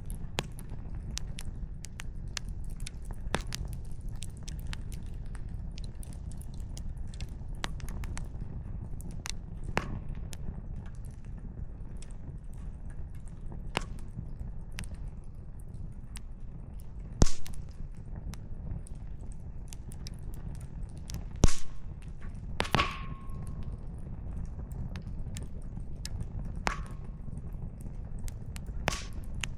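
Firewood in a campfire crackling, with scattered pops over a steady low rumble. A few sharper snaps in the second half are the loudest.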